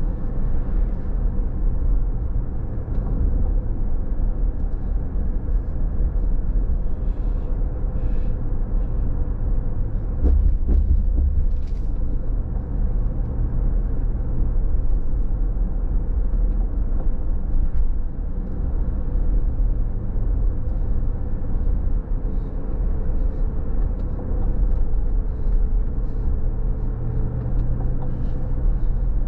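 A car driving on a wet road: a steady low rumble of engine and tyre noise, with a faint steady hum and a few scattered faint ticks.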